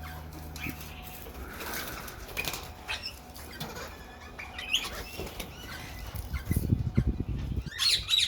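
Aviary parrots giving scattered chirps and squawks, with a brief flurry of wing flapping about six and a half seconds in. The squawking gets louder and busier near the end.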